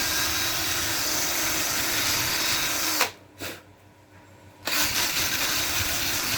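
Handheld power drill running flat out for a quick clean of a part: it runs for about three seconds, stops, then runs again for nearly two seconds near the end.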